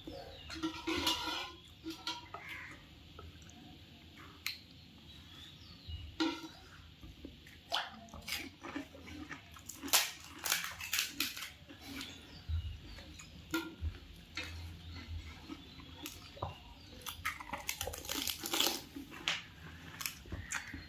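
Chewing and crunching of pani puri: the crisp fried puri shells crackle between the teeth in irregular clusters of sharp crunches.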